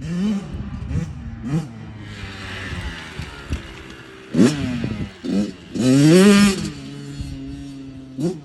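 Kawasaki KX85 two-stroke dirt bike engine idling while warming up, with repeated quick throttle blips that rise and fall back to idle. The sharpest blip comes about four and a half seconds in, and a longer, louder held rev about six seconds in.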